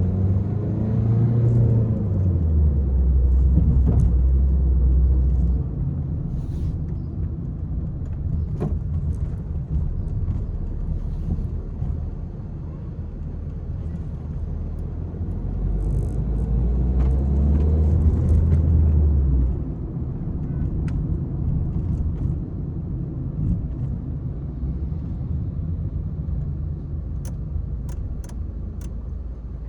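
Peugeot 301 engine under way, with a steady low drive rumble. It pulls harder twice, near the start and again about halfway through, and each pull cuts off sharply.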